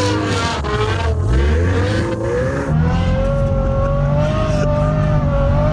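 Ferrari F12's V12 engine under hard driving: the revs rise and fall a few times through gear changes, then about three seconds in settle into a steady, held note.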